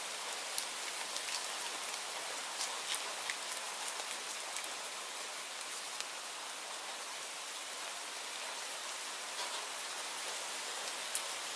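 Steady rain falling: an even hiss with scattered sharp ticks of single drops, more of them in the first few seconds and again near the end.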